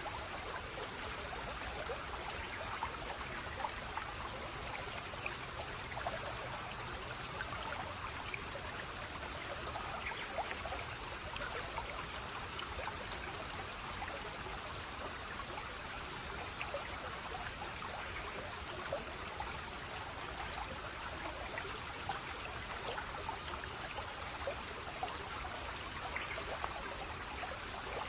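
Running water flowing steadily, an even rushing with small splashes and drips scattered through it.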